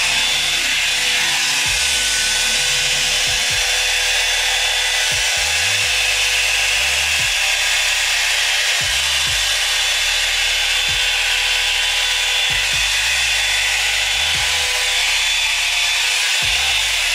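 Revlon Hot Air Kit blow-dryer brush running steadily: a strong rush of air with a thin steady whine, while it works through a strand of damp hair. Background music with a bass line plays underneath.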